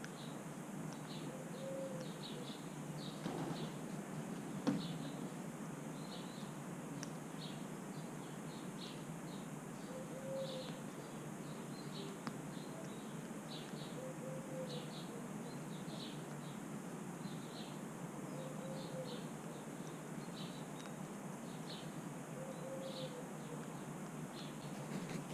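Small birds chirping over and over in short high notes, with a soft low call repeating every few seconds over a steady outdoor hiss. One sharp click sounds about five seconds in.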